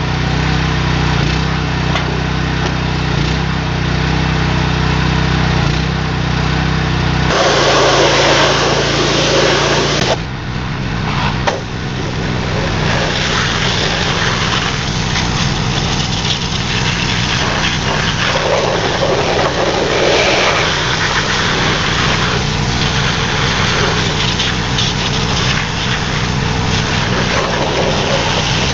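Small gasoline engine of a pressure washer running steadily, with the high-pressure water jet hissing against a cast-iron engine block in spells, the first starting about seven seconds in. From about ten seconds in the engine's steady hum turns rougher.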